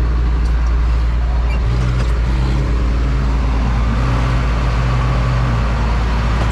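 Antique tractor engine running hard under load, a steady low drone with a higher engine tone rising over it for a few seconds in the middle.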